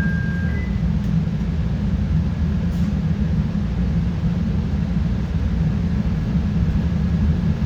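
CTA Red Line subway train running through the tunnel, heard from inside the car: a steady low rumble of wheels and motors. A faint high steady tone fades out in the first second.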